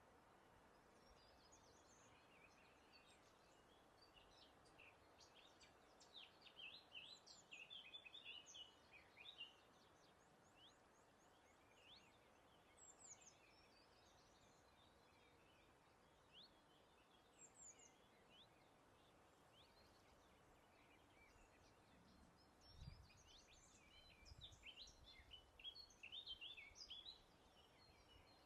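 Faint songbird singing: quick jumbled phrases of high chirps and trills, with one dense run about a quarter of the way in and another near the end, and scattered single chirps between, over a steady soft hiss.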